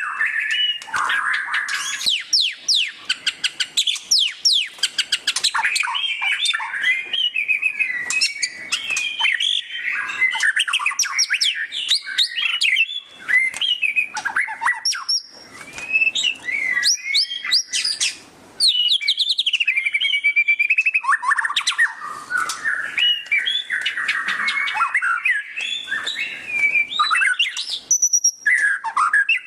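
White-rumped shama (murai batu) singing loudly in a fast, nearly continuous run of rapid chattering note series and whistled glides (the 'ngeriwik' style), broken only by a few short pauses.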